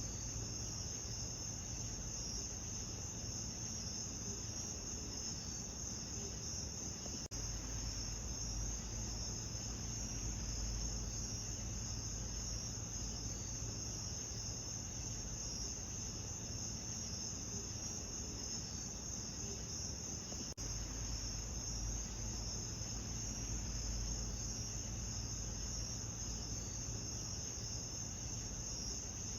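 Steady chorus of crickets chirping over a low rumble, broken twice by a brief dropout.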